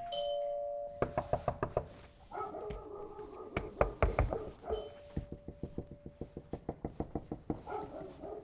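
A two-tone doorbell chime ending on its lower note, then rapid, repeated knocking on a door in quick runs of raps, the loudest about four seconds in.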